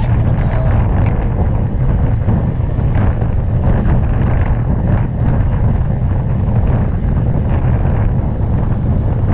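Steady, heavy wind rumble on the microphone of a GoPro Max action camera, from riding a bicycle into the airflow.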